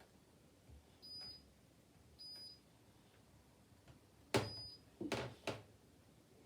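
Candy washing machine control panel beeping as it is set: two short high beeps about a second apart, then a sharp click with a third beep and two quicker clicks, as the programme and options are selected just before the cycle starts.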